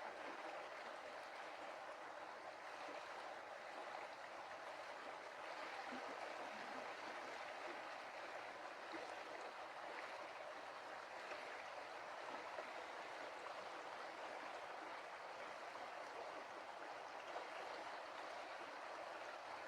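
Stream water running and splashing over stones, a steady rushing.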